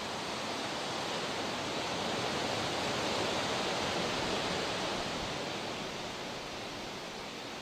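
Continuous rushing of water, swelling to a peak about three seconds in and easing off toward the end.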